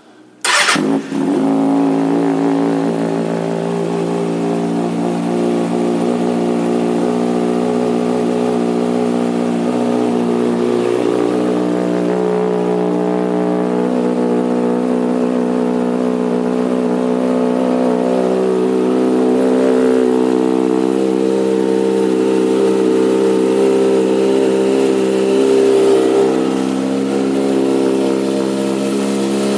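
2009 Kawasaki ZX-6R's inline-four engine with a Two Brothers Black Series exhaust starting up just under a second in and then idling steadily, its pitch shifting a little now and then in the second half.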